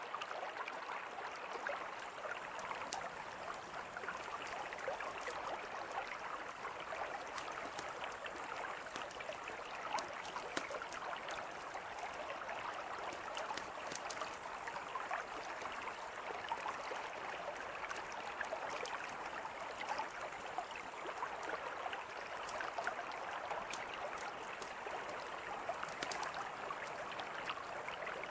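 Mountain river flowing steadily, with a wood campfire crackling over it in scattered sharp pops.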